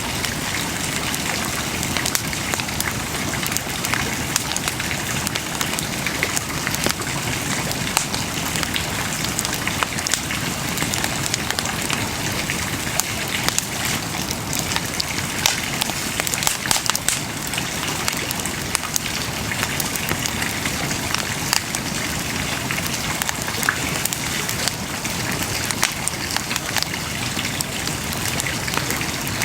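Wood bonfire crackling, with many scattered sharp pops over a constant hiss.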